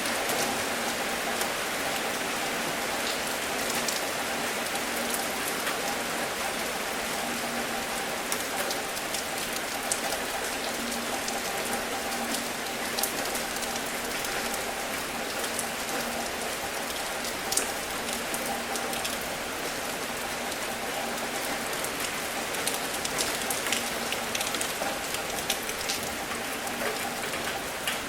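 Steady rain falling, with many single drops ticking sharply close by over an even hiss. A faint low steady hum runs underneath.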